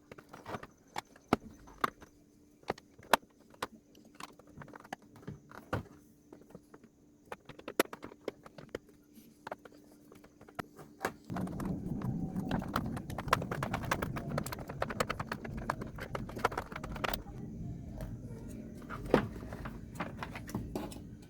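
Hands taking apart a portable speaker's control panel: scattered clicks and knocks of plastic parts and screws, then from about halfway a denser, louder run of scraping and rattling as parts are worked loose, over a faint steady electrical hum.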